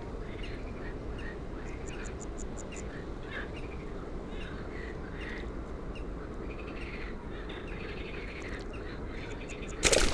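Small birds chirping in short, faint calls repeated every fraction of a second over a steady low outdoor hum, with a brief loud rustle near the end.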